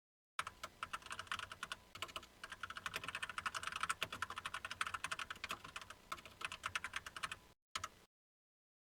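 Computer keyboard typing: a fast, uneven run of keystrokes that starts just under half a second in and stops briefly near the end before a last few keys.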